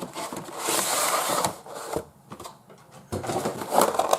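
A Pokémon trading card collection box being opened and handled: a rustle of packaging for about a second near the start, a quieter pause, then crackling and small clicks near the end.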